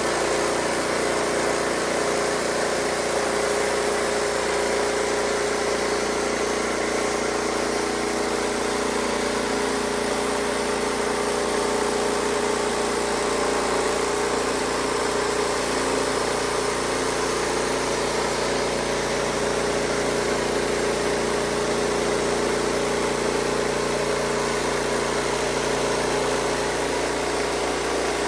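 Wood-Mizer LX55 sawmill engine running at a steady speed throughout, with an even hum and no change in pitch.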